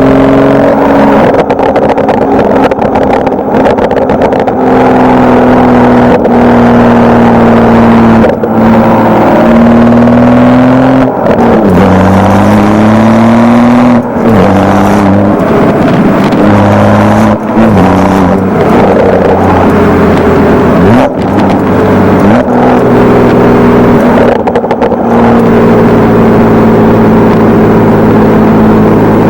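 BMW N55 3.0-litre turbocharged inline-six through an aftermarket Wimmer stainless-steel exhaust, running loud under load. The pitch climbs, then drops abruptly with a short crack several times, as when shifting up through the gears, and climbs again.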